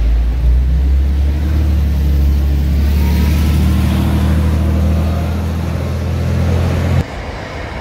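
Bus engine running under power with a steady low drone. It cuts off abruptly about seven seconds in.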